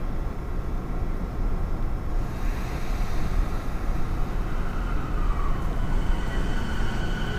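Toei 10-300 series electric train heard from inside the car, pulling away: a steady low rumble of wheels on rail, joined about six seconds in by a whine from the traction motors and inverter as it gathers speed.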